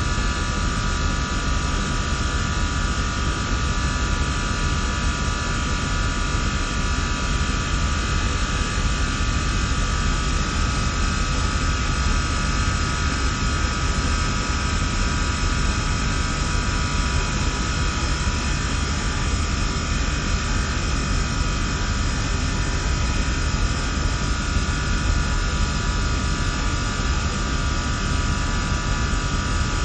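SystemAir chiller and fan-coil HVAC equipment running steadily: a constant fan noise with low rumble and a few steady whining tones, unchanging throughout.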